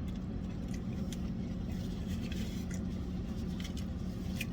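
Steady low hum of an idling engine, with scattered light clicks and scrapes of eating from a takeout tray.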